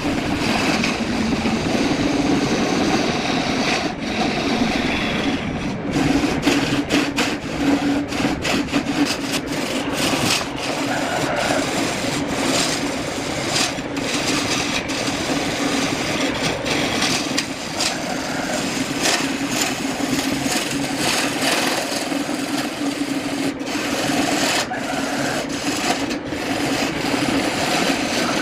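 Wood lathe running with a steady hum while a tool works against the spinning wood, a continuous scraping rasp.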